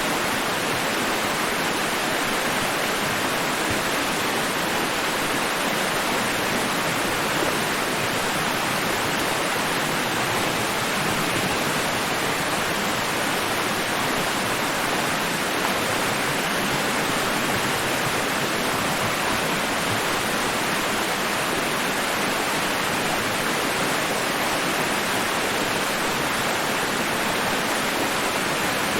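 Steady, even rushing noise like a waterfall or white noise, spread evenly from low to very high pitches, with no rise and fall of breaking waves: a continuous white-noise sleep track.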